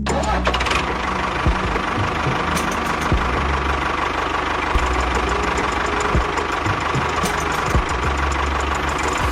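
A small engine running steadily with a rough, knocking sound and occasional sharp knocks, over background music.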